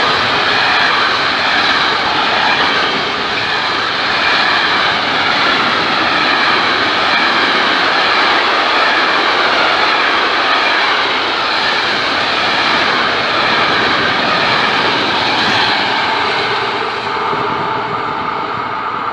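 Long freight train of closed sliding-wall wagons passing at speed: a loud, steady rush of wheels on rails that eases off near the end as the tail of the train draws away.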